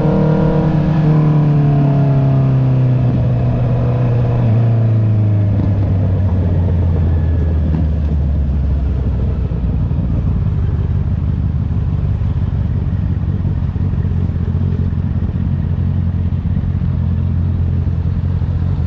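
Honda CB650R's inline-four engine through an Akrapovic exhaust, coming off the throttle: the exhaust note falls steadily in pitch over the first several seconds, then settles into a steady low note.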